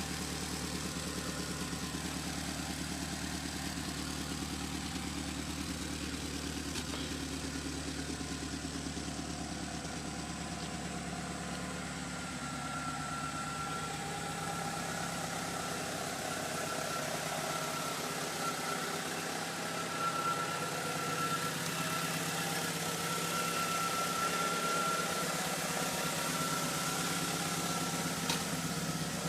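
Mitsubishi Eclipse GST's turbocharged four-cylinder engine idling steadily. A thin, high steady whine joins about twelve seconds in, and the level rises slightly after that.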